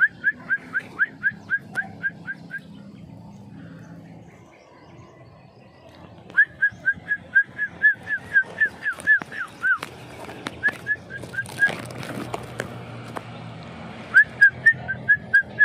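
A person whistling short, clipped notes of the same pitch, about four a second, in several runs with pauses between, to call hatchlings in a nest, who take it for a parent arriving at feeding time.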